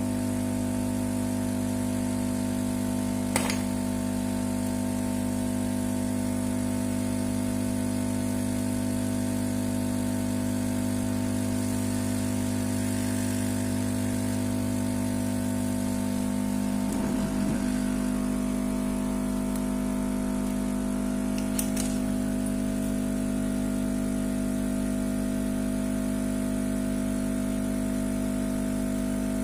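A steady hum with several fixed pitches; a short click about three seconds in, and about two-thirds of the way through the deepest part of the hum drops out.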